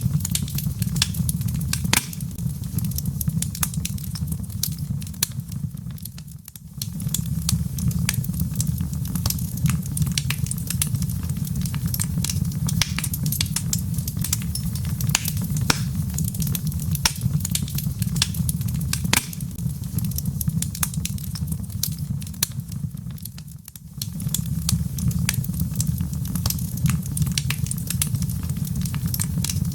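Wood fire crackling in a fireplace: frequent sharp pops and snaps over a steady low rumble. The sound fades down briefly twice, about six seconds in and again later.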